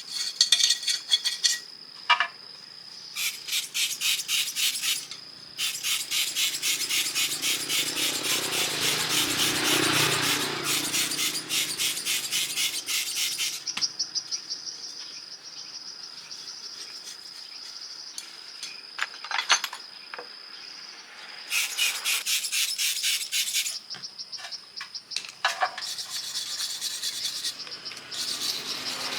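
Insects chirring in fast, even pulses that come in phrases several seconds long with short pauses between, over a steady high whine.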